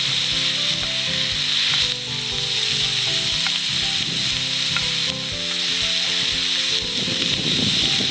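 Food sizzling and frying in a wrought-iron frying pan over a campfire, a steady hiss that drops back briefly about two and five seconds in.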